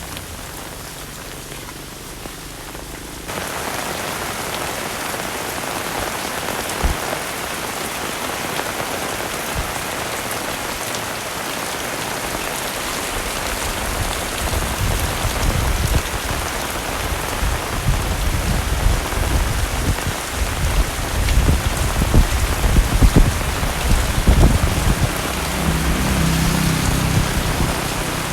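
Heavy rain falling steadily, a dense hiss of drops that gets louder and fuller about three seconds in. Uneven low rumbling comes and goes through the second half.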